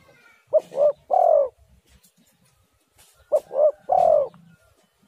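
Spotted dove (tekukur) cooing: two three-note phrases about three seconds apart, each two short coos followed by a longer coo that falls in pitch.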